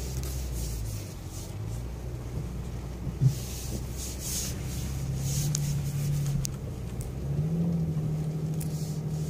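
BMW X6 engine heard from inside the cabin, pulling under load as the car climbs a steep muddy mound. Its note rises a little about five seconds in and again about seven seconds in. There is a single knock about three seconds in.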